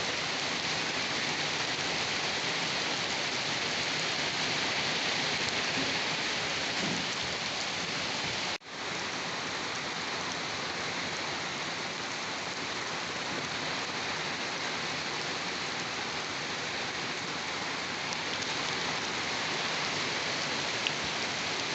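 Steady, even rain hiss of dense falling rain. It cuts out for an instant about a third of the way through, then resumes.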